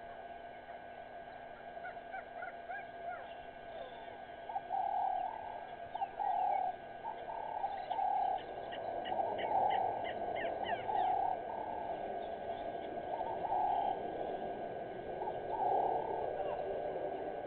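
Wild birds calling: one bird gives a repeated low hooting note about every second and a half, while others chirp and whistle in quick high notes over it.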